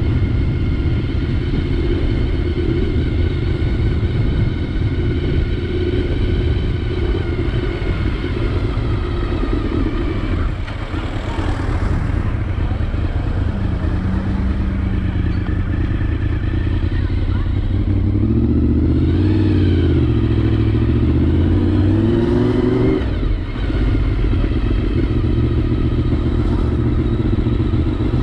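Honda VFR 750's V4 engine running under way, with wind rumbling on the helmet-camera microphone. The engine note drops about ten seconds in, then rises and falls a few times about two-thirds of the way through.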